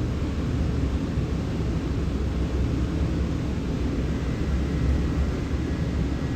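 Steady low rumbling background noise of a railway station platform, with no distinct events.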